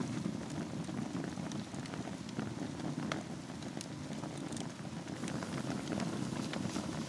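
Wood fire burning in a fireplace: a steady low rush of flame with frequent small, irregular crackles and pops.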